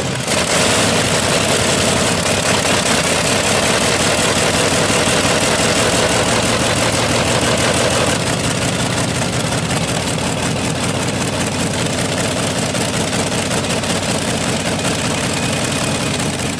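A large engine running steadily and loudly without a break, easing slightly about halfway through.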